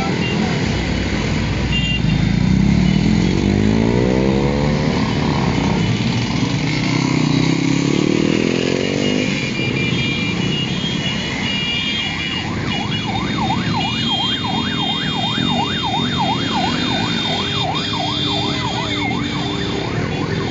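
Motorcycle engines revving and passing, their pitch climbing twice in a row. Past the middle a siren joins in with a fast yelp, sweeping up and down two or three times a second over the engines.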